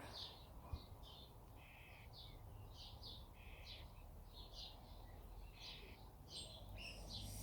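Faint songbirds chirping: short, high chirps repeating about twice a second.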